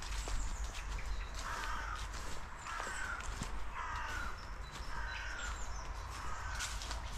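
A bird cawing: five harsh calls in a row, about a second apart.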